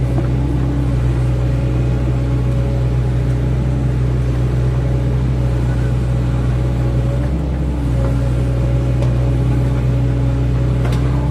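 Hydraulic excavator's diesel engine running steadily under working load, dipping briefly a little past halfway, with a sharp click near the end.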